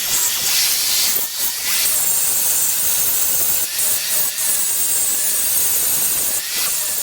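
Gas forge burner running, a loud steady hiss.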